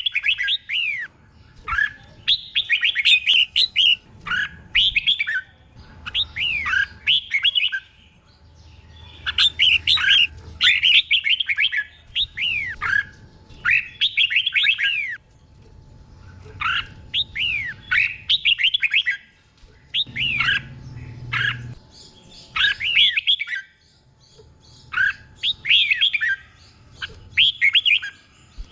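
Red-whiskered bulbul singing: short phrases of quick, sweeping whistled notes, one after another with brief pauses, many of them doubled, the style bulbul keepers call a 'double' song.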